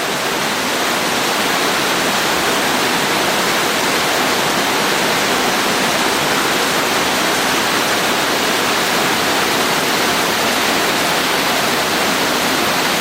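Victoria Waterfalls pouring: a loud, steady rush of falling water.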